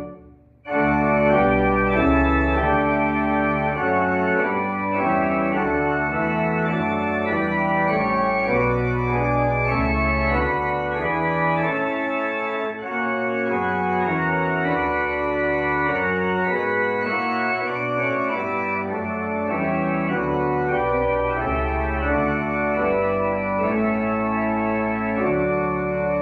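Organ music in held chords that change about every second, with a brief drop to near silence right at the start.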